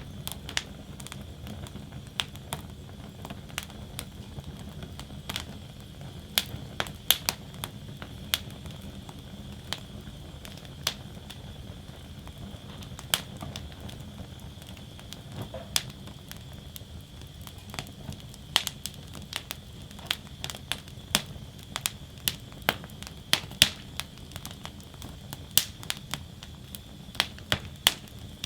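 Wood fire burning in a fire basket: irregular sharp crackles and pops, more frequent in the second half, over a low steady rumble.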